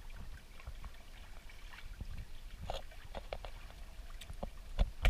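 Water splashing and trickling against the hulls of a Hobie Cat catamaran under sail, over a steady low wind rumble on the microphone, with scattered small knocks and a sharper one near the end.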